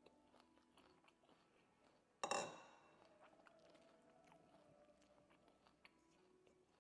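Near silence with faint chewing of food, and one short ringing clink of tableware a little over two seconds in.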